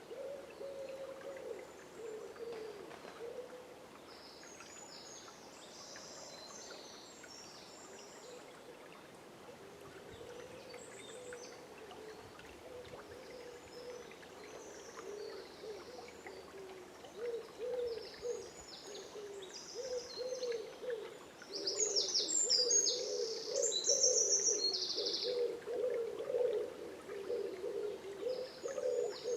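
Dawn birdsong by a river: low, wavering hooting calls repeat throughout, while clusters of high chirps come and go and are busiest and loudest in the last third. A faint hiss of flowing water lies underneath.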